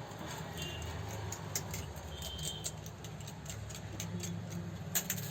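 Scattered light metallic clicks and taps from hands working on the overlock sewing machine's parts, irregular rather than a running rhythm, over a low steady hum. A brief high squeak comes about two seconds in.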